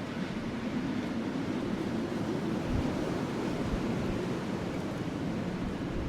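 Wind blowing steadily in a low, rushing whoosh that swells slightly about three seconds in.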